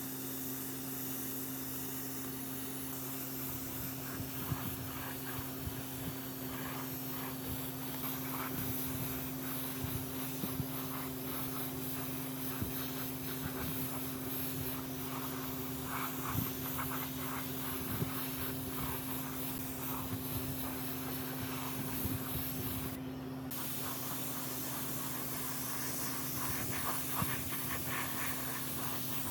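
Steady hissing spray over a constant motor hum, with scattered light clicks and ticks.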